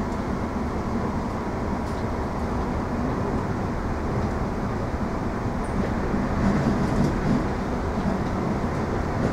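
Electric suburban train running at speed, heard inside the passenger carriage: a steady rumble of wheels on rails with a faint constant whine, swelling a little after about six seconds.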